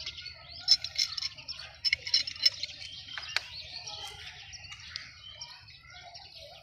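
Small birds chirping in quick bursts of short, high notes, loudest around one and two seconds in. A single sharp click comes about three and a half seconds in.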